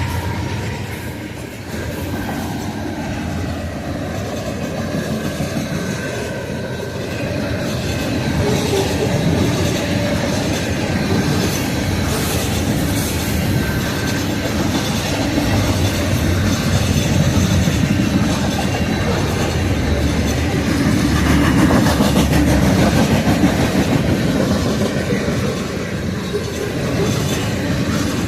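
Loaded coal train's hopper cars rolling past with a steady rumble, wheels clacking over the rail joints and faint wheel squeal. A locomotive horn's last note fades out at the very start.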